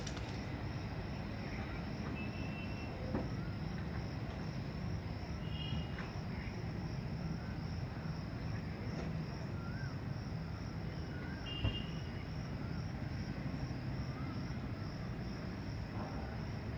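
Steady outdoor background noise: a low rumble with a continuous high, thin insect-like drone over it and scattered short chirps. There are a couple of brief knocks, about three seconds in and again near twelve seconds.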